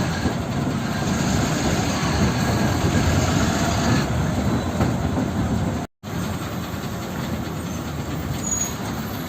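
A heavy vehicle running: steady, dense mechanical and road noise that cuts out briefly about six seconds in, then resumes slightly quieter.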